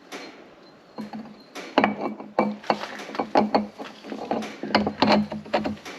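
A dozen or so irregular hammer blows on steel, starting about a second in, with a steady metallic ring under them: a bearing being driven onto a mower's PTO shaft.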